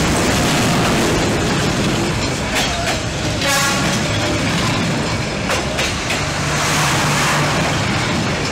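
A diesel locomotive and passenger carriages pass close by as a loud, steady rumble. The wheels knock a few times, and there is a brief high-pitched squeal about three and a half seconds in.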